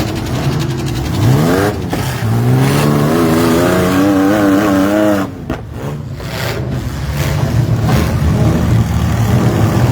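Engines of vans, SUVs and mini trucks revving hard as a demolition derby heat gets under way. One engine climbs steeply in pitch about a second in, revs waver up and down, and the level dips briefly around the middle.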